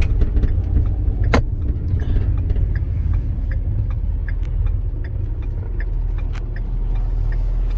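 Cab noise of a 2011 Ford F-450 with a 6.7 L Power Stroke diesel driving on the road: a steady low rumble of engine and road, with small scattered rattles and a sharp click about a second and a half in.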